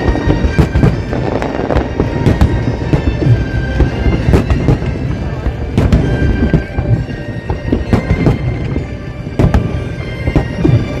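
Fireworks exploding in quick, irregular succession, sharp bangs over a continuous rumble, with music playing alongside.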